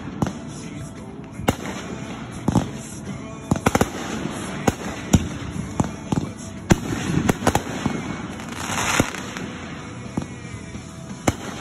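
Fireworks display: aerial shells going off in an irregular run of sharp bangs and crackles, with a quick cluster of cracks about three and a half seconds in and a longer hiss about nine seconds in.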